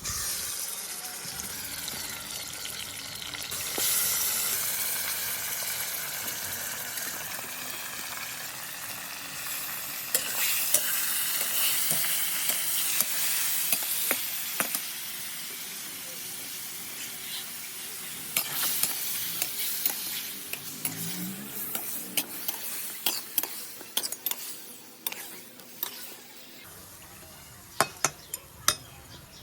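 Chicken pieces frying in hot oil with browned onions in a kadhai, sizzling loudly while a spatula stirs and scrapes the pan. The sizzle starts suddenly, swells a few seconds in, dies down near the end, and a few sharp knocks of the spatula on the pan come at the close.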